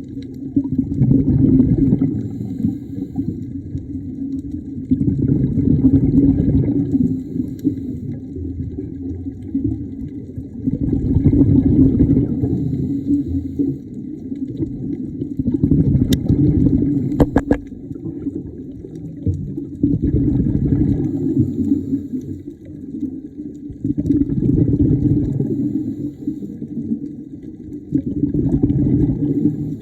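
A scuba diver's exhaled bubbles rushing out of the regulator, heard underwater, swelling and fading about every four to five seconds with each breath. A couple of sharp clicks come about sixteen and seventeen seconds in.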